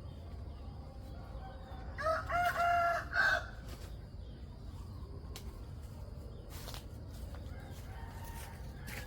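A rooster crows once, about two seconds in, a single call lasting about a second and a half, over a low steady background. A few faint knocks sound later.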